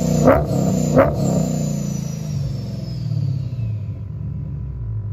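Vortech-supercharged 392 Hemi V8 in a Dodge Challenger, blipped twice in quick succession, then settling back to idle while the centrifugal supercharger's high whine falls away over a few seconds.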